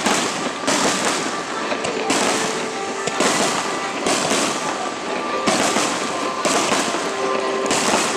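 Aerial fireworks shells bursting at close range, a sudden report roughly once a second, each trailed by a short rush of noise.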